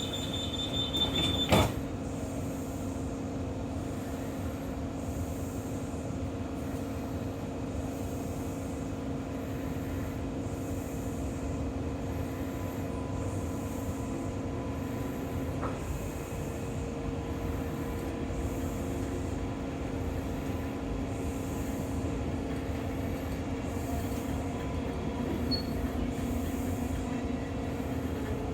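A high door-warning tone sounds for the first second and a half and ends with a loud thump as the train doors shut. Then the electric train runs with a steady hum of motors and wheels on rails, heard from inside the carriage.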